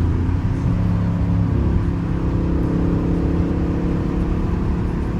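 Straight-piped, catless Dodge Charger R/T's 5.7-litre HEMI V8 running at a steady cruise, its deep exhaust drone heard from inside the cabin.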